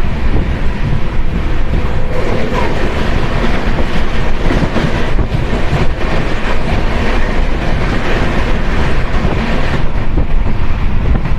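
Express passenger train running past on the rails, a loud steady rumble with scattered clacks from the wheels.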